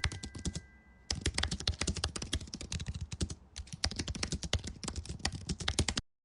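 Rapid typing on a computer keyboard: quick runs of key clicks with brief breaks about a second in and about three and a half seconds in, cutting off suddenly near the end.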